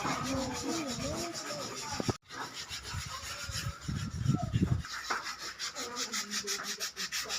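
Wood being worked by hand with an abrasive tool, rubbing back and forth in quick, even strokes about five times a second.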